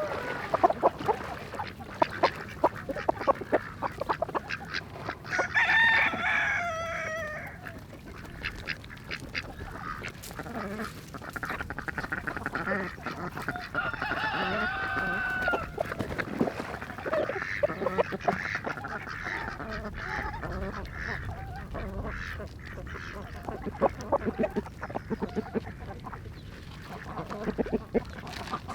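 Ducks calling, with a burst of calls about six seconds in and another around fifteen seconds, over many short clicks and taps throughout.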